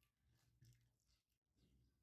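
Near silence, with a few faint soft clicks.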